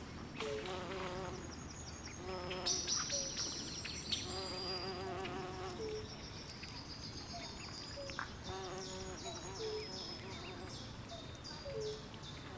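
Night swamp chorus: insects chirp high and continuously, while frogs give repeated short, wavering trills and brief low chirps every second or two.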